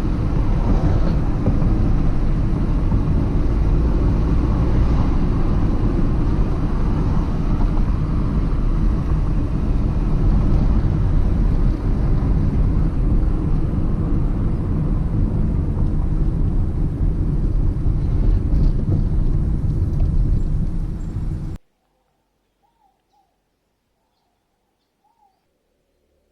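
A car running: a loud steady rumble that cuts off suddenly about 21 seconds in, followed by near silence with a few faint chirps.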